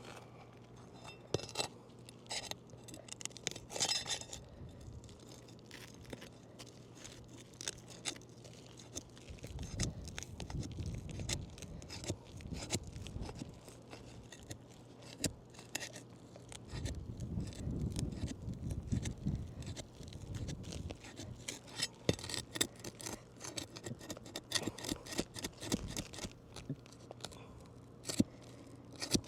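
Pry bar and hammer working under asphalt roof shingles: scattered scraping, clicks and small knocks as the shingles are pried loose and lifted in a repairability test, with two stretches of low rumble along the way.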